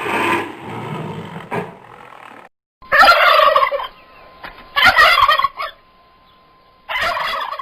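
A domestic turkey gobbling three times, each gobble about a second long and about two seconds apart. Before the first gobble, a deeper, rougher sound fades out.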